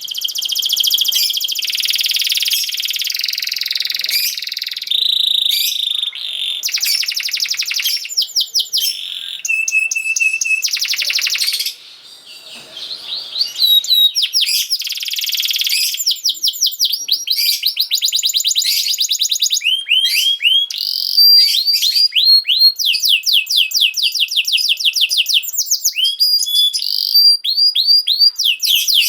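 Domestic canary singing a long, continuous song of fast trills and rolls, each phrase a rapid run of repeated high notes, with a short break about twelve seconds in.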